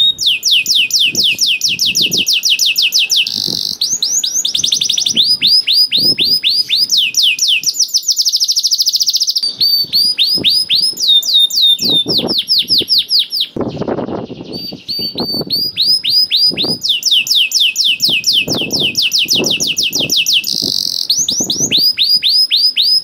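Domestic canary in full song: rapid rolling trills of repeated sweeping notes that switch to a new phrase every second or two, with one short break a little past halfway.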